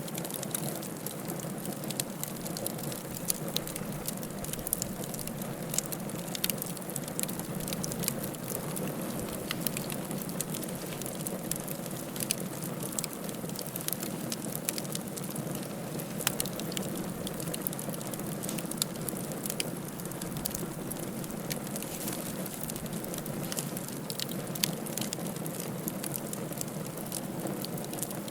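Wood fire burning in a fireplace: a steady low rushing with frequent small crackles and pops scattered throughout.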